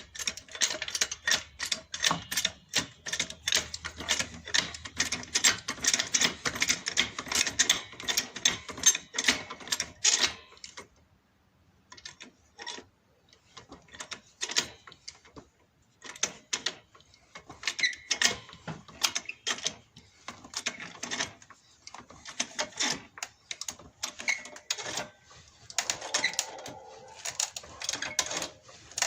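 Two-ton car jack being worked to raise the car: a fast run of sharp metallic clicks. The clicks stop for about five seconds near the middle, then start again.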